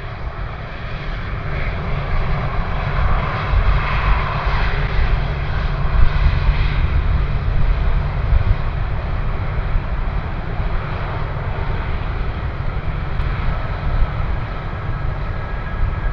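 Fixed-wing aircraft flying past: a loud, continuous engine rumble that swells a few seconds in, with faint whining tones coming through near the end.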